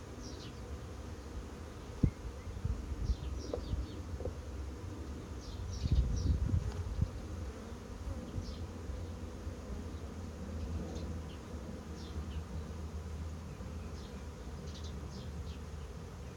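Honeybees buzzing steadily around an open hive. Over the buzz come a sharp knock about two seconds in and a cluster of louder bumps around six to seven seconds in, from hive frames and boxes being handled.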